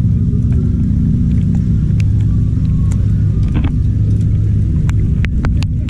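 Heavy bass from a car audio system's subwoofers playing loud, heard from outside a car whose doors are sound-deadened: a steady low rumble with no rattle. A few sharp clicks near the end.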